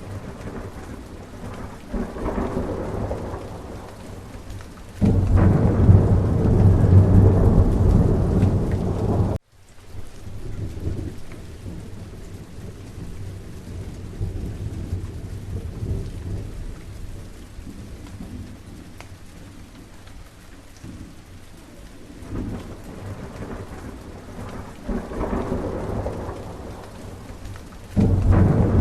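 Steady rain with rolling thunder. A loud, deep rumble builds about five seconds in and cuts off abruptly near ten seconds. Softer rumbles swell and fade later on, and another loud one begins near the end.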